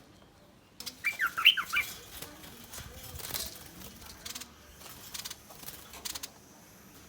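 A wild bulbul giving a quick burst of harsh, threatening alarm notes, a rapid run of rising and falling calls about a second in, followed by a few short scratchy sounds.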